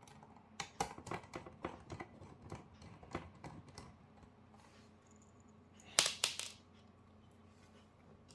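Rapid small clicks and taps of a screwdriver and small screws being handled on the monitor's mainboard, with a louder clatter about six seconds in.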